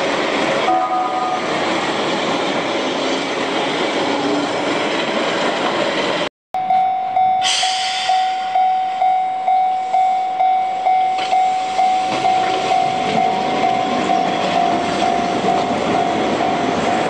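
Keihan 600 series tram-train car running past on street track, its wheels and running gear rattling. After a cut, a level-crossing bell rings in steady strokes, about two or three a second, while a Keihan 700 series train runs through, the strokes blurring into a steadier ring in the second half.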